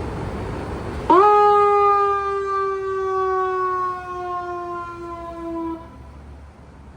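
A fire truck's horn sounding one loud, long blast of about five seconds. It starts suddenly a second in and sags slightly in pitch before cutting off.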